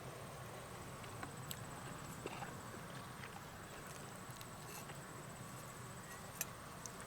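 Faint outdoor background with a thin, steady high-pitched tone and a few scattered small clicks.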